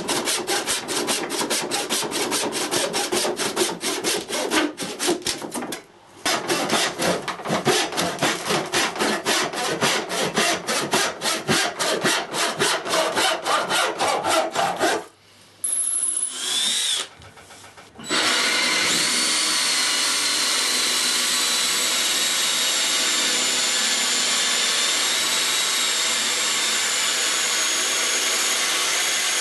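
A handsaw cutting wood in rapid, even strokes, pausing briefly twice. About eighteen seconds in, a power drill starts and runs steadily with a constant high whine.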